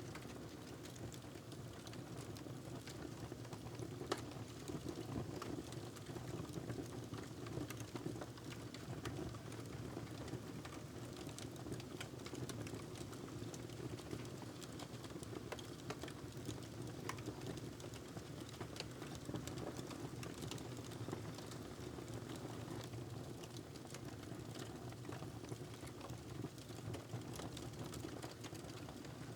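Wood fire crackling in a fireplace: many small scattered pops and snaps over a steady low rumble.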